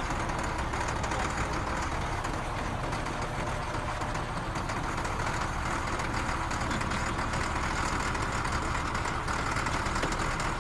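Steady, unchanging machine noise, like a motor running.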